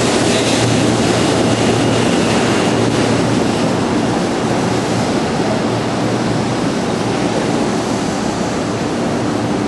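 Shinkansen 0 series train pulling out and running past close by: a steady rushing rumble of the cars going by, easing a little after about four seconds as the end of the train passes and it draws away.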